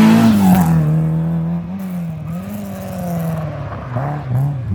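Rally car engine revving hard and passing close, its pitch and loudness dropping within the first second, then pulling away with the revs rising and falling as the driver works the throttle.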